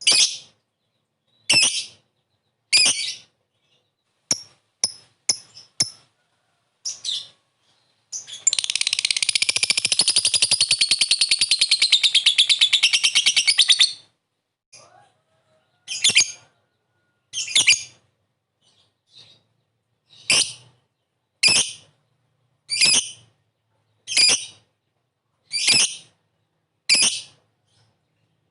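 Lovebird calling with short, shrill chirps spaced one to two seconds apart, broken by one long, rapid, pulsing chatter of about five and a half seconds starting about eight seconds in: the drawn-out trill that lovebird keepers call ngekek.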